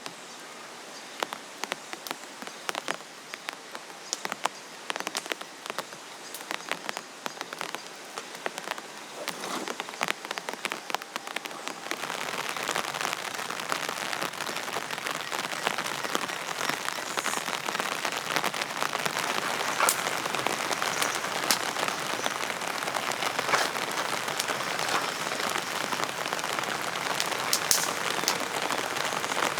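Rain falling on a surface, with scattered separate drops striking at first. About twelve seconds in it becomes suddenly louder and denser, a steady downpour.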